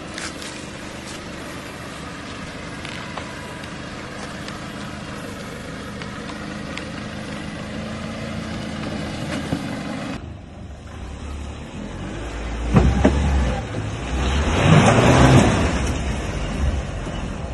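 Four-wheel-drive engine running steadily as the vehicle crawls up a rutted dirt track, its note rising slowly. After a cut, the engine revs harder and louder as a four-wheel drive climbs a steep dirt hill, with a sharp knock partway through.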